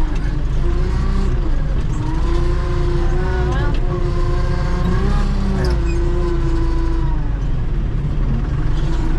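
Tractor engine running steadily under load, with a whine that rises and falls several times as the front loader lifts.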